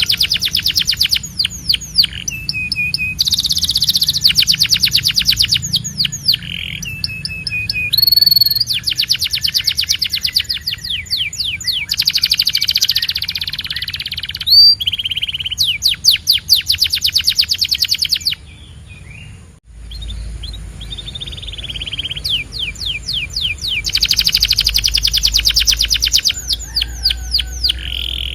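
Male canary singing: long runs of fast trills, each a rapid string of identical sweeping notes, switching to a new trill every couple of seconds, with a brief break about two-thirds of the way through.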